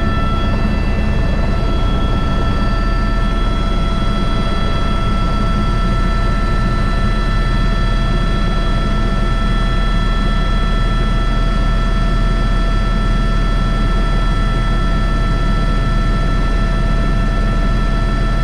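Airbus H125 (AS350 B3) helicopter in flight, heard from the cockpit: the single turboshaft engine's steady whine with several constant high tones over the low, even thrum of the main rotor.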